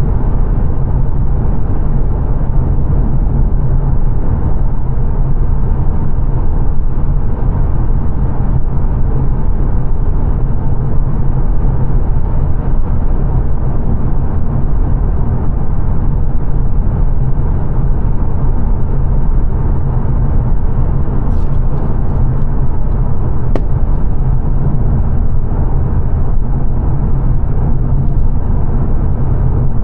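Steady road and tyre rumble with engine drone heard inside the cabin of a 2022 Mazda 3 saloon cruising at dual-carriageway speed. A few faint clicks come about two-thirds of the way through.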